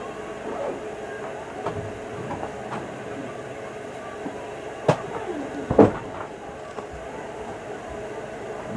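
Slime being taken out of its container and handled, with scattered small clicks and two sharp clicks, about a second apart, near the middle. A steady hum runs underneath.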